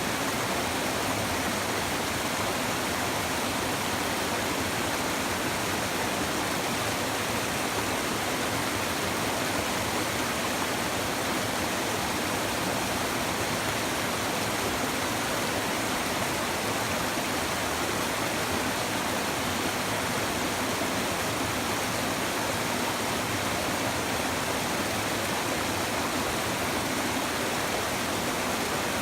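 A river babbling steadily over stones, an even rush of running water without breaks.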